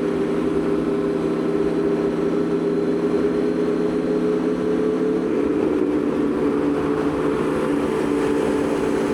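Aprilia Tuono V4 motorcycle's V4 engine running steadily under way, with a wind rush; its note shifts about five seconds in.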